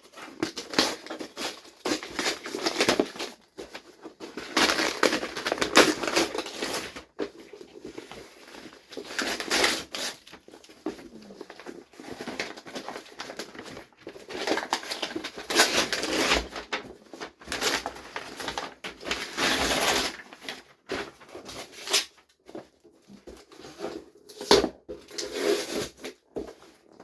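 A cardboard parcel being opened by hand: irregular bouts of cardboard scraping, tearing and crinkling packaging, with short pauses between them.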